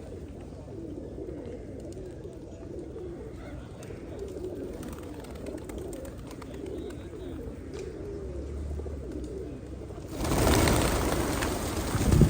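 Pigeons cooing steadily, low and wavering. Near the end a loud rushing noise starts and covers the cooing.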